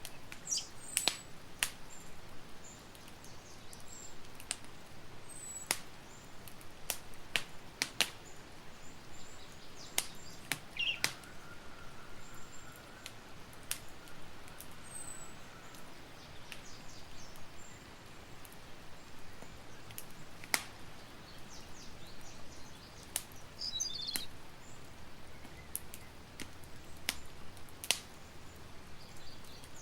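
Campfire crackling, with sharp irregular pops every second or so over a steady low hiss. A few faint bird chirps come through now and then.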